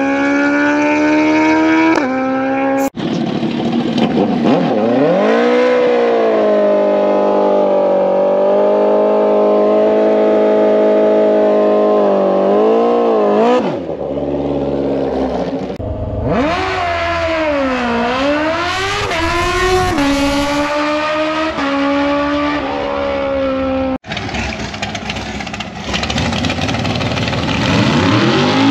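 Drag-racing motorcycle engines revving hard, their pitch climbing, holding high, then dipping and rising again, in several clips joined by abrupt cuts.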